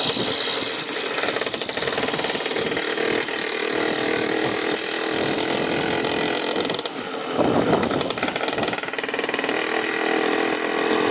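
A small engine running steadily with a rattling mechanical clatter, growing briefly louder about seven seconds in.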